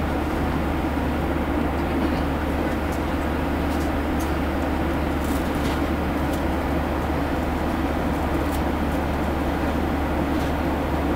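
Steady drone inside a Boeing 737 passenger cabin in flight: engine and airflow noise, even and unchanging.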